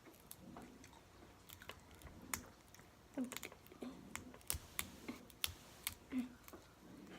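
Crab-leg shells being cracked and picked apart by hand, with scattered sharp clicks and cracks, and mouth sounds of eating. Short low grunts of effort come in between about three and six seconds in.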